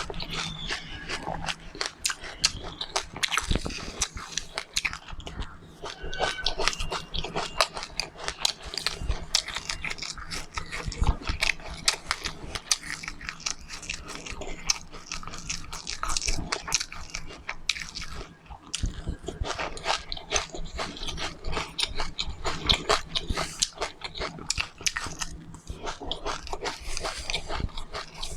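A person chewing and crunching seeds close to the microphone: a dense, irregular run of small crisp cracks and chewing noises.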